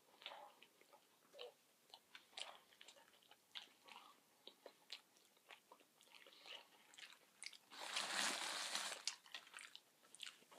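Quiet close-up chewing of a mouthful of sub sandwich, with many small wet mouth clicks and smacks. About eight seconds in comes a louder rustling noise lasting about a second.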